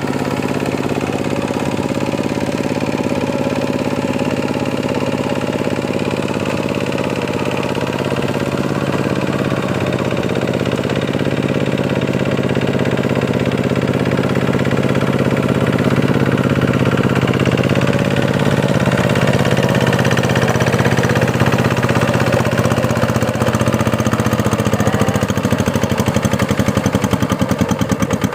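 Diesel tractor engine running steadily while ploughing a muddy paddy field. Near the end its pitch drops as the engine slows.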